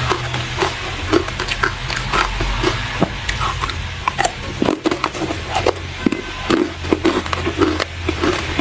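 Close-miked crunching of hard ice being bitten and chewed: a quick, irregular run of sharp cracks and crunches, a few each second, over a low steady hum.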